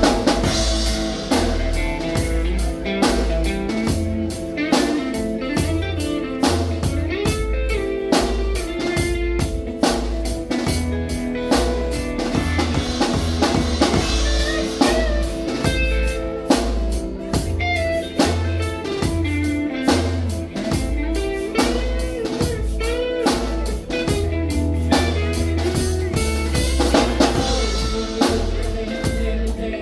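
A band playing bluesy rock with guitar, bass and drum kit on a steady beat, with no singing.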